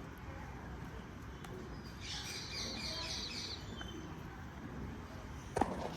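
A bird chirping a quick run of high notes about two seconds in, over a low background rumble, and a single sharp knock near the end.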